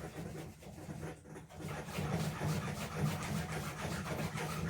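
Welds on a steel truck part being cleaned up: a steady low mechanical hum with scratchy scraping noise over it.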